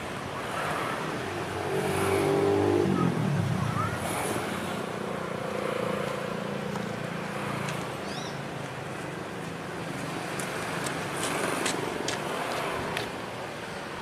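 A train passing: an engine note falls in pitch as it goes by about three seconds in, then a steady rumble with a run of sharp clicks near the end.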